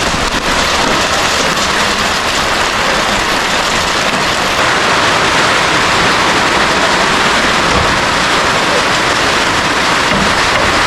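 Heavy rain pouring down in a dense, steady hiss that grows a little louder about halfway through.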